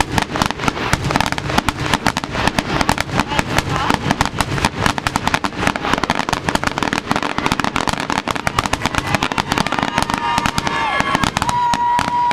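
Fireworks display: a rapid, continuous barrage of bangs and crackling from bursting shells, many reports a second with no let-up.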